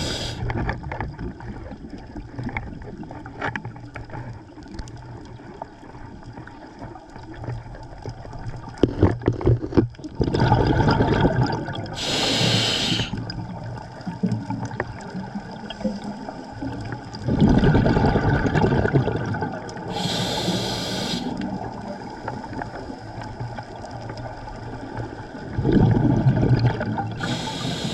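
Scuba diver breathing through a regulator underwater: three breaths about eight seconds apart, each a rush of exhaled bubbles followed by a short hiss of inhalation, over a low steady underwater crackle.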